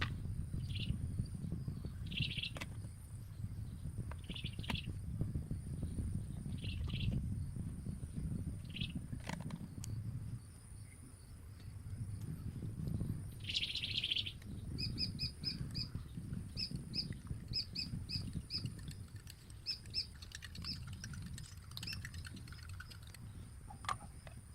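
Wild birds calling: a short high call repeats every two seconds or so, then from about fifteen seconds in a rapid series of short chirps. A steady low rumble and a few sharp clicks run underneath.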